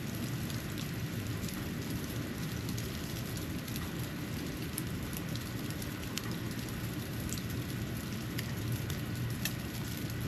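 Snow falling outdoors: a steady low rumbling hush with scattered faint ticks of flakes or drops landing.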